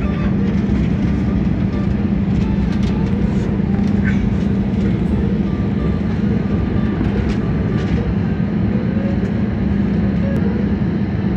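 Airliner cabin noise inside a jet airliner: steady engine and airframe noise with a low hum, and a few faint clicks scattered through it.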